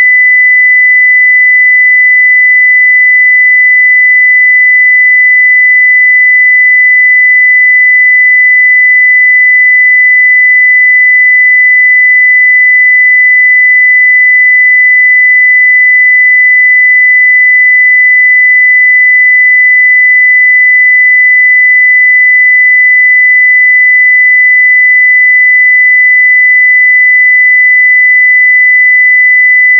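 Continuous 2 kHz sine-wave test tone at full level (0 dB), one steady pure pitch.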